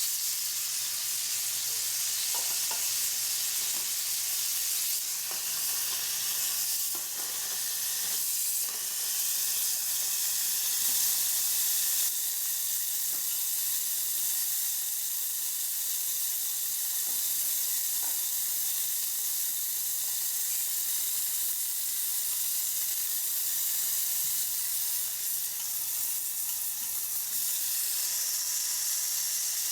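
Hamburger patty sizzling over a wood-gas pellet stove's flame: a steady hiss with occasional pops and crackles.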